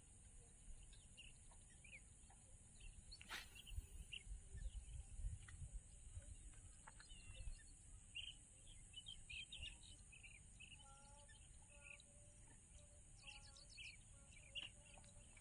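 Near silence, with faint, scattered short bird chirps over a steady low hiss.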